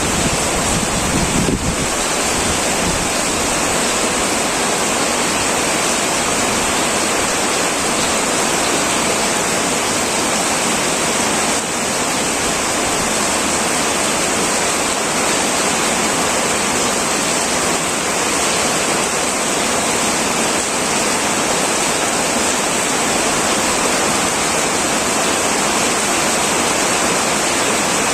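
Heavy rain falling steadily on a tin roof, an even, dense hiss. A low rumble underneath dies away about a second and a half in.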